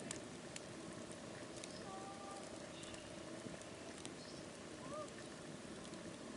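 Wood campfire burning, crackling steadily with scattered sharp pops, and a few short faint whistles.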